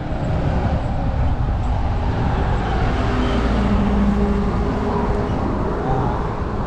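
Road traffic noise: a steady rumble of vehicles passing on a busy road.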